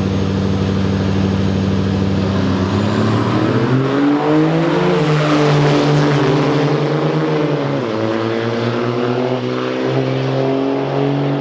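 Diesel drag-racing trucks running hard down the strip: a steady engine drone rises in pitch about three seconds in as they launch, holds, then drops about eight seconds in and holds again.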